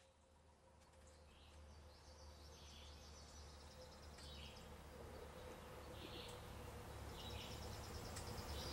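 Nature ambience fading in: scattered short bird chirps over a fast, high insect trill.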